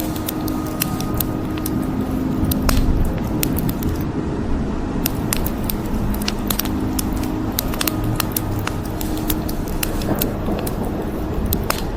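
Wood fire crackling, with many sharp pops at irregular intervals over a steady hiss of rain.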